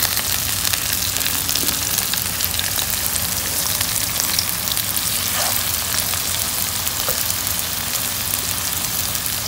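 Sliced onions frying in hot oil in a pan, with ginger-garlic-green chili paste just added: a steady sizzle with fine spattering crackles.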